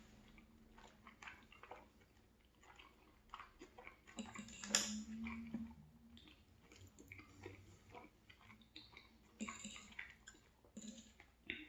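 A person chewing a mouthful of food close to the microphone: quiet, irregular wet mouth clicks and crackles, with a louder burst of them about five seconds in.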